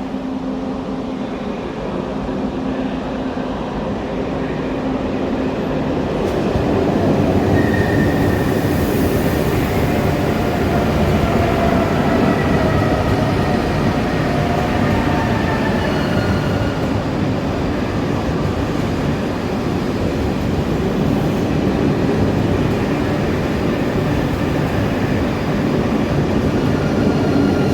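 High-speed train running alongside the platform: a steady rumble of wheels and traction that grows louder about six seconds in, with faint drawn-out squealing tones over it.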